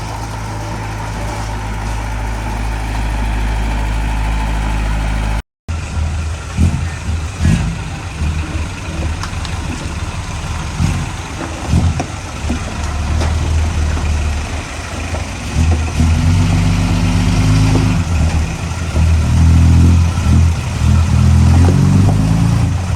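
Heavy diesel engine of earthmoving machinery: running steadily, then, after a cut about five seconds in, working under varying load with repeated rising revs near the end.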